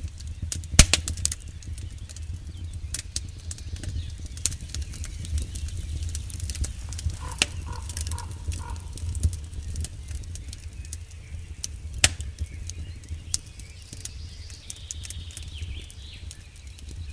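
Campfire crackling: irregular sharp pops and snaps of burning wood over a steady low rumble of the flames. The loudest pop comes just under a second in, with another sharp one about twelve seconds in.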